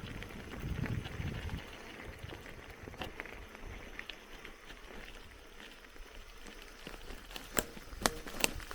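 Mountain bike rolling along a dirt forest trail: a steady crunch of tyres on dirt and gravel, with a rumble of wind in the first second or so. Near the end come several sharp knocks and clicks as the bike rattles over bumps.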